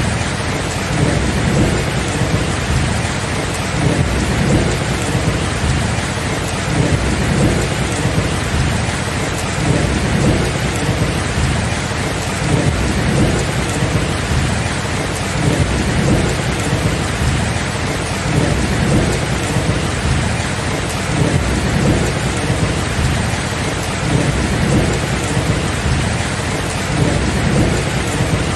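Steady rain with a continuous low rumble of thunder underneath and no sharp thunderclaps.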